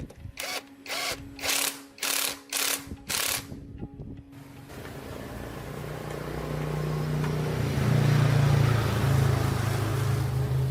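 A power tool in use: about six short bursts roughly half a second apart, then a continuous run that builds louder and holds.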